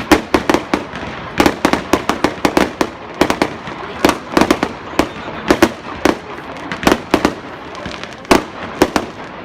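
Fireworks exploding in a dense, irregular barrage of loud bangs, often several a second, over a steady crackle.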